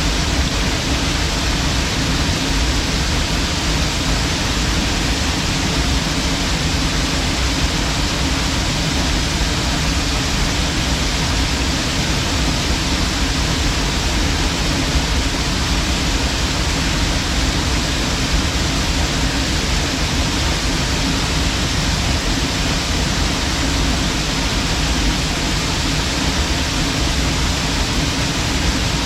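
Waterfall: a loud, steady, unbroken rush of falling water, from a deep rumble up into a hiss, unchanging throughout.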